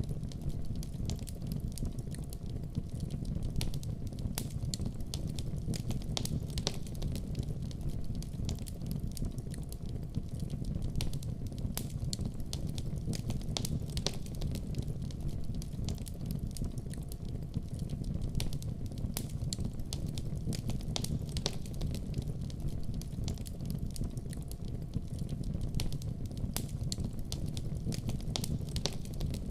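Wood fire burning in a fireplace: a steady low rumble of the flames with frequent, irregular sharp crackles and pops throughout.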